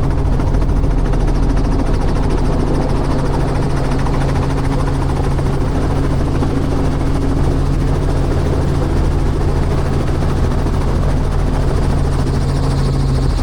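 Helicopter in flight, its rotor and engine making a loud, steady low drone that does not change.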